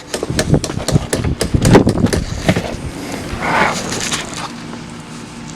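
A quick, irregular run of clicks and knocks from hand work on the car around the battery and cables. It eases off about halfway through.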